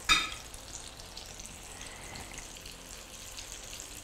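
Bean kebabs shallow-frying in a little oil in a frying pan, the oil sizzling and crackling steadily. A brief ringing clink right at the start is the loudest sound.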